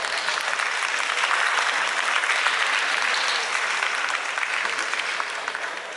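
Sumo audience applauding, many hands clapping at once; the clapping swells to its loudest in the middle and dies down near the end.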